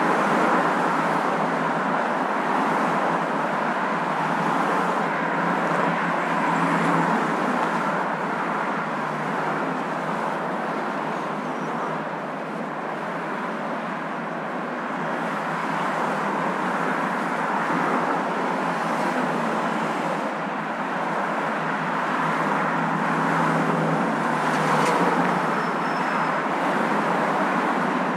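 Steady road noise of a moving car: an even rushing hum that holds at much the same level throughout.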